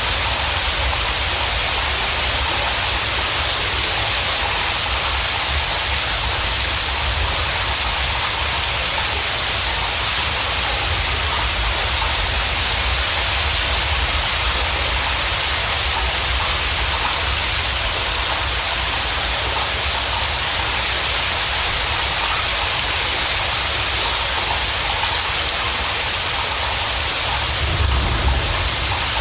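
Steady rain falling, an even hiss with no let-up, with a low rumble swelling a little near the end.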